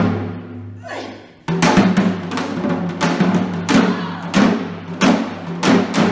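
Percussive music: loud drum strikes in a driving rhythm over low held tones. The strikes drop away briefly and resume about a second and a half in.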